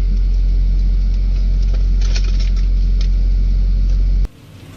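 Steady heavy low rumble of a vehicle driving, with a few sharp clicks or rattles in the middle. It cuts off abruptly near the end, giving way to quieter traffic noise.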